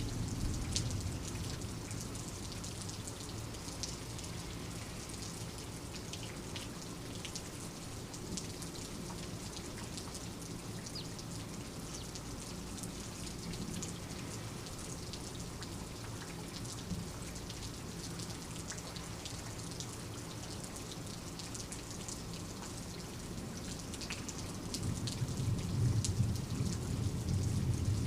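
Steady rain, with many individual drops ticking on a surface. A low thunder rumble fades in the first couple of seconds and swells again about 25 seconds in.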